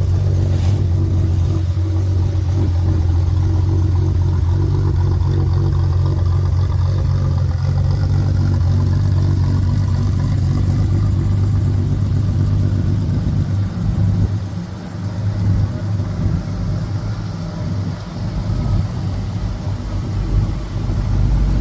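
Car engine running under way with road noise, a steady low rumble that becomes uneven and drops a little after about 14 seconds, then builds again near the end.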